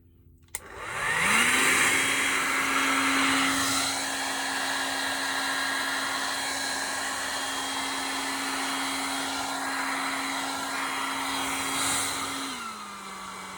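Handheld hairdryer switched on with a click. Its motor spins up to a steady hum over loud rushing air. Near the end it drops to a lower speed and starts to wind down.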